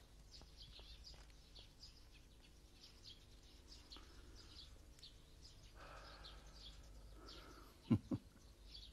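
Small birds chirping repeatedly, faint, in short high notes. Just before the end come two dull low thumps in quick succession.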